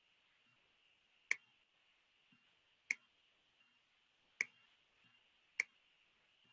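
Four single sharp clicks, spaced about a second and a half apart, over near silence: a computer mouse being clicked.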